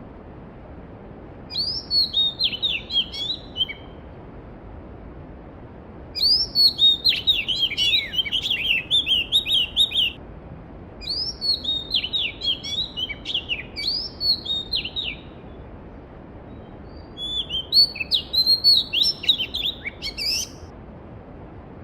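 A songbird singing about five phrases of quick, downward-sweeping high notes, each a couple of seconds long with pauses between, over the steady rush of a mountain stream.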